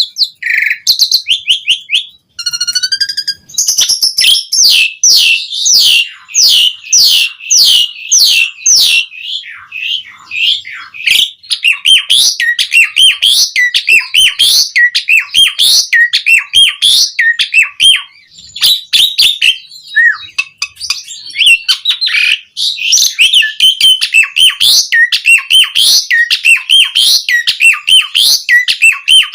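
Pied starling (jalak suren) singing actively and loudly: a fast, nearly unbroken run of short whistled and chattering notes, a full and varied song broken by a few brief pauses.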